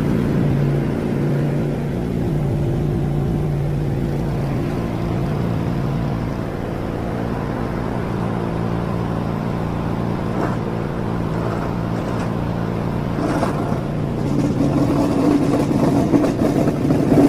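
A mowing machine's motor running steadily with a low hum. About three-quarters of the way through it grows louder and rougher.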